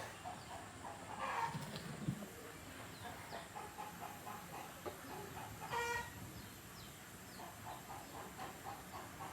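Faint animal calls: a rapid pulsing call repeating several times a second, with one short, louder pitched call a little past the middle.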